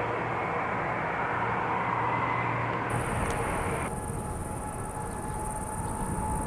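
Jet airliner engine noise, a broad steady rush with faint whining tones, that drops away sharply about four seconds in. A steady high-pitched chirring, like insects, comes in about three seconds in and continues.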